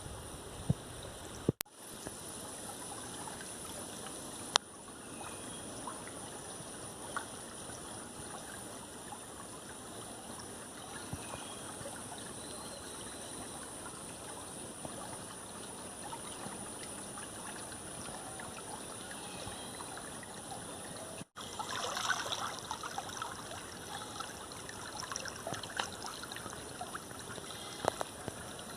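A small stream running steadily, with trickling water. The sound drops out briefly twice, and in the last third it gets busier with irregular splashing.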